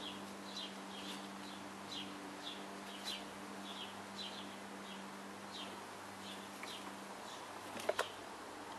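A bird chirping over and over, short high chirps about twice a second, over a steady low hum. Two sharp knocks come close together near the end.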